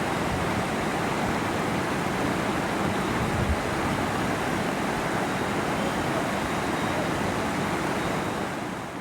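Steady, loud rushing of water, falling away near the end.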